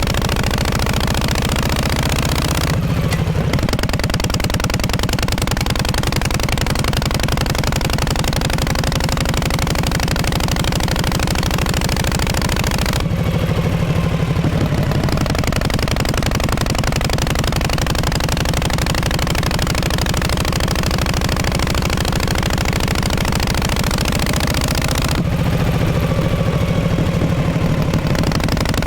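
The exhaust of a 1948 Harley-Davidson Panhead V-twin running steadily. Its note shifts about three seconds in, again near the middle and again near the end.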